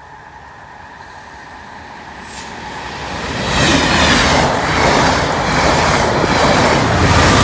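Locomotive-hauled passenger train headed by a Class 67 diesel approaching along the line, growing steadily louder, then passing close by at speed from about three and a half seconds in.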